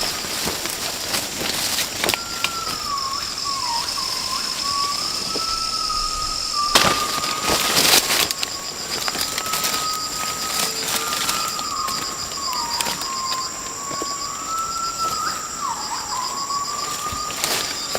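Rainforest insects calling in a steady chorus: one a slowly wavering mid-pitched whine, others steady high-pitched tones, one of them pulsing. A few sharp knocks cut through, the loudest a little before the middle.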